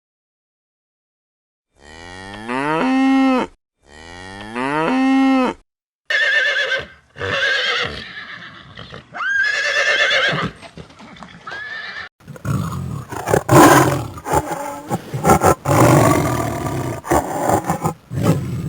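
A series of animal calls. First come two similar drawn-out calls that rise in pitch and then hold. Several shorter, higher calls with sliding pitch follow. A dense, noisy stretch fills the last six seconds.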